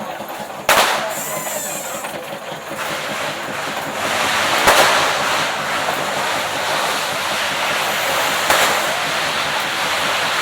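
Fireworks going off: three sharp bangs about four seconds apart, over a continuous hissing rush that grows louder about three seconds in.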